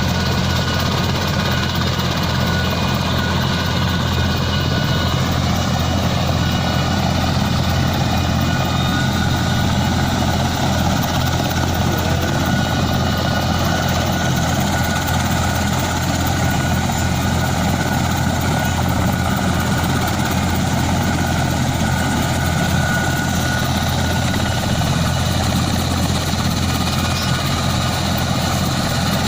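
Passenger helicopter running steadily: a constant low drone with faint steady whines higher up.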